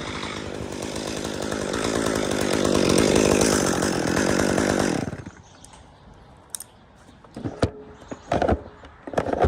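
Chainsaw cutting dead aspen wood, its sound building to the loudest point about three seconds in, then cutting off suddenly about five seconds in. A few sharp knocks follow near the end.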